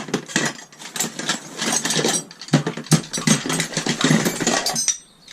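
Small metal scrap (screws, fittings and other bits) clattering and rattling as a hand rummages through a box of it, a dense run of knocks with a brief lull about two and a half seconds in, stopping shortly before the end.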